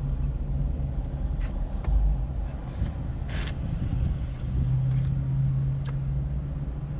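Steady low rumble of a car's engine idling, heard from inside the cabin. A few light clicks and a short rustle from handling the food container come about three seconds in.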